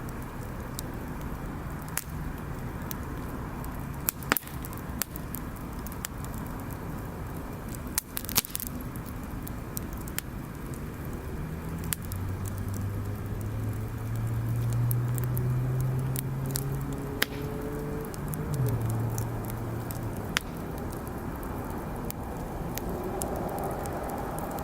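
Wood fire crackling over a steady hiss, with scattered sharp pops, the loudest about four and eight seconds in. From about halfway through, a vehicle engine hums in the background, rising in pitch and then dropping as it passes.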